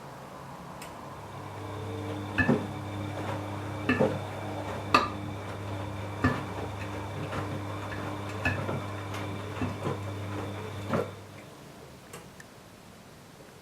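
Washing machine drum turning: the motor hums steadily for about nine seconds and then stops, while the tumbling load knocks and clinks against the drum at irregular intervals.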